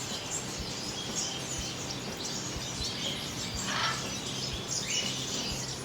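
Many cage birds chirping and calling together, with a louder call about four seconds in and a short rising call just before five seconds.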